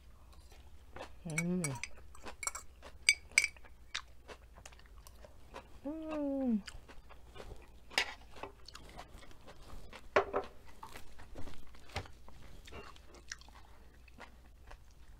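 Chewing a mouthful of crunchy coleslaw: many small crisp crunches and wet clicks, with two falling "mmm" hums of enjoyment.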